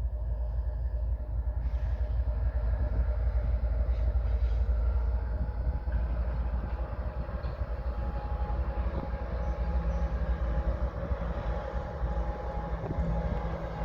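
Diesel-hauled goods train of petroleum tank wagons running past, with a steady low rumble.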